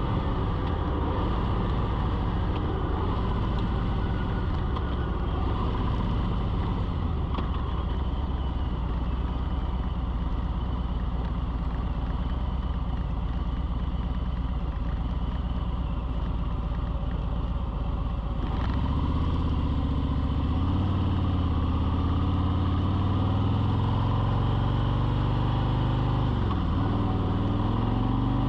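An engine running steadily; about 18 s in its pitch steps up, then rises and falls.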